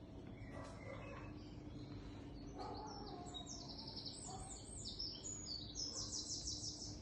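Small birds chirping in fast runs of high notes from about two and a half seconds in, over a faint steady low hum.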